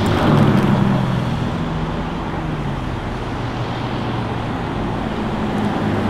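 Aston Martin DBS Superleggera's twin-turbo V12 running at low revs as the car pulls slowly away, a steady low engine note over road noise.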